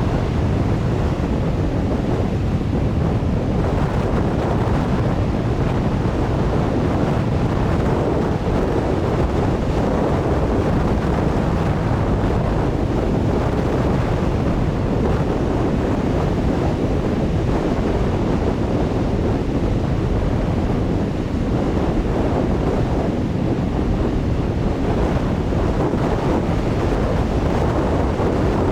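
Strong wind buffeting the microphone, a steady low rumble, over ocean surf breaking.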